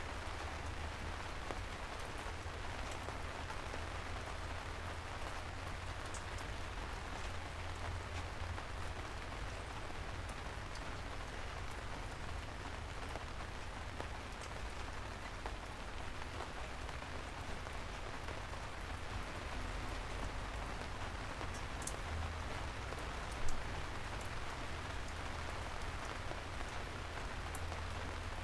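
Steady rain falling, a constant hiss with a low rumble under it and scattered sharp ticks of single drops. One brief, louder knock comes about five seconds before the end.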